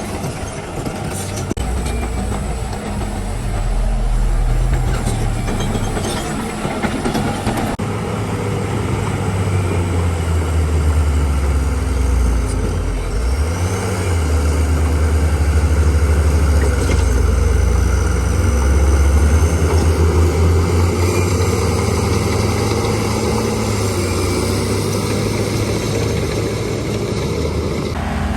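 Heavy diesel engine of earthmoving machinery working under varying load. Its revs fall briefly about halfway through and then build again, with a faint high whine sliding in pitch above the drone.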